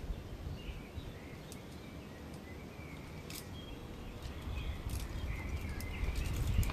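Outdoor ambience: small birds chirping faintly, a few sharp clicks, and a low rumble that grows louder near the end.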